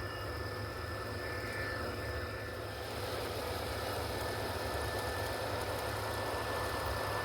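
O scale MTH model train locomotive running: a steady mechanical running sound that grows a little louder about three seconds in.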